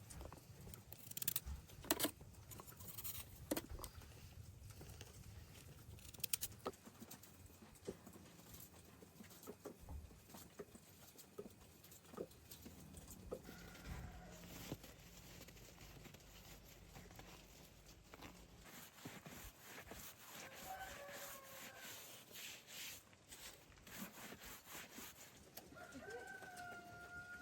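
Many light clicks and taps, with a few faint, short bird calls about halfway through and again near the end.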